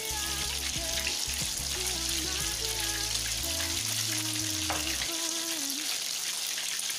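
Beaten egg deep-frying in hot oil in a wok, a steady dense sizzle as a thin stream of egg is poured in and bubbles up.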